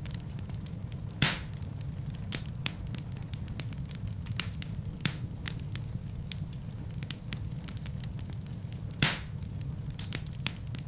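Wood fire burning in a fireplace: a steady low rumble of flames with scattered crackles, and two louder pops, one about a second in and one near nine seconds in.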